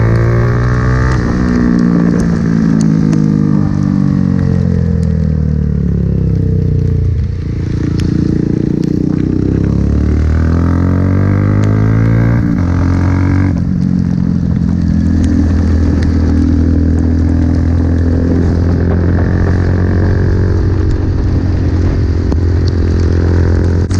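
Honda Grom 125cc single-cylinder motorcycle engine under way. Its revs climb and drop several times through gear changes, with a brief lift-off about seven seconds in. It then holds a steady engine speed for the last ten seconds.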